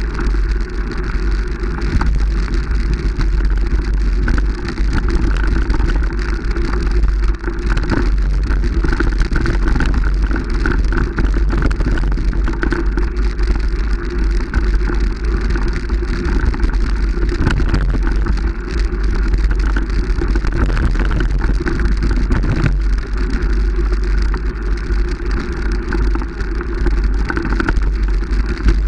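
Steady vehicle running noise with heavy low rumble, as heard from on board while moving.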